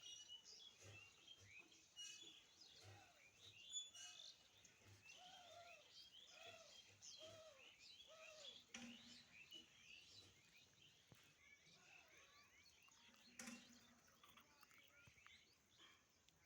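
Faint birdsong: several birds chirping and twittering, with a run of lower, evenly repeated call notes about halfway through.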